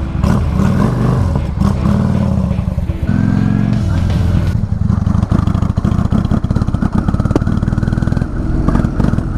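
Cruiser motorcycle engine pulling away and accelerating, heard from the rider's seat, with a change in engine note about three seconds in, as from a gear change.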